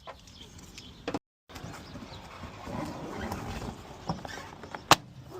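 Irregular knocking and plastic rattling as a pickup's fender flare is worked loose from the body, with one sharp snap about five seconds in.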